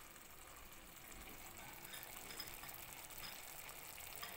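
Faint sizzling of chicken and yogurt cooking in a pan over the flame, with a few light clicks.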